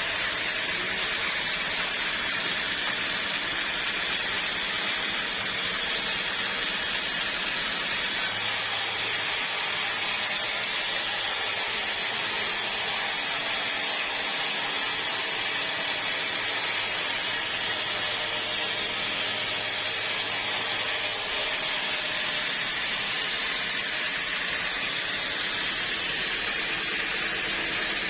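Sawmill machinery running with a steady hissing noise; a low hum joins about eight seconds in and drops away about twenty-one seconds in.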